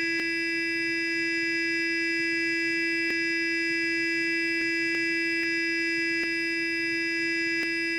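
Sonic electric toothbrush running: a steady, unchanging buzz, with a few faint ticks scattered through it.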